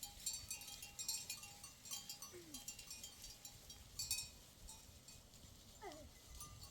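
Livestock bells clinking and ringing irregularly, lightly, as a flock of sheep and goats moves about. A short falling call comes about two and a half seconds in, and another near the end.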